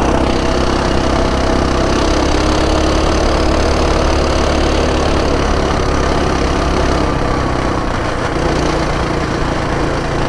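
Coleman pull-start minibike's small single-cylinder four-stroke engine running steadily, its note shifting slightly about eight seconds in.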